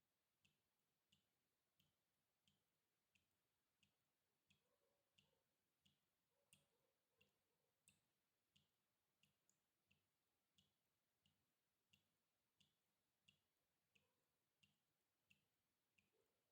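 Water drops falling one after another in a steady, even rhythm, about three drops every two seconds, each a faint small plink with a soft low tap under it.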